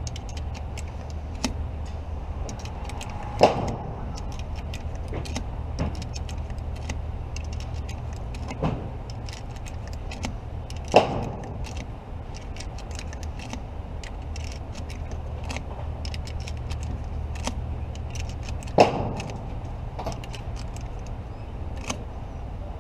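Single pistol shots at a range, spaced several seconds apart: three loud ones and a few fainter ones between, over a steady low hum.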